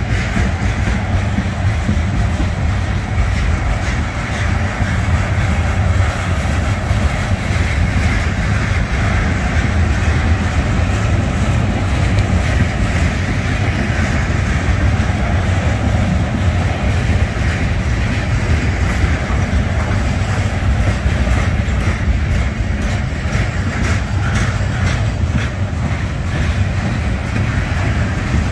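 Loaded trash-container freight cars rolling past on steel rails: a steady, loud rumble of wheels on track, with some wheel clicks toward the end.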